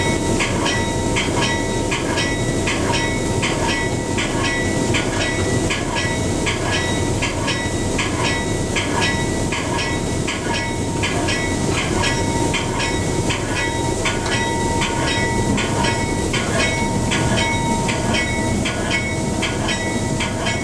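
Railway train running: a steady, loud rumble with a fast, regular clicking repeating throughout.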